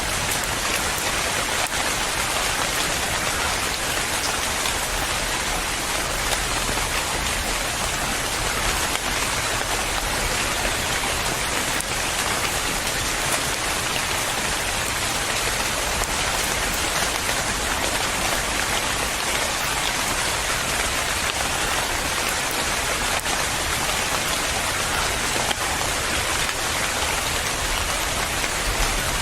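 Steady rain falling on a surface, an even hiss of many drops that never lets up.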